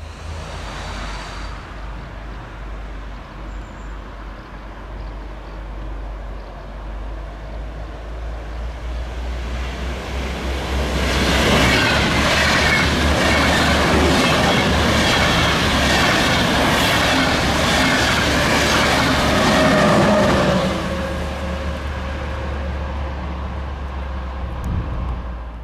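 Deutsche Bahn Intercity train hauled by a class 101 electric locomotive passing close by. Its rumble and wheel clatter build up, are loudest for about ten seconds as the coaches go by, then fade.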